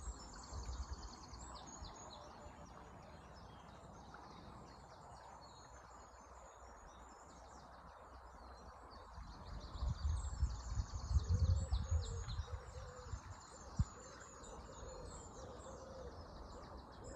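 Several songbirds singing in a dawn chorus, with repeated chirps and fast trills, over the steady rush of flowing river water. Low rumbles come in briefly at the start and again about ten seconds in.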